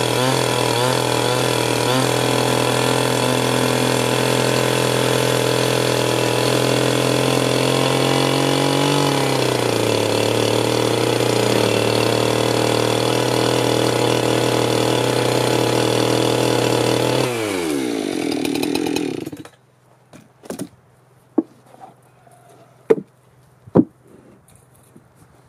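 Chainsaw engine running at high revs, its speed wavering in the first couple of seconds as it works the wood. About 17 seconds in the revs fall away, and the engine stops a couple of seconds later. A few sharp knocks follow.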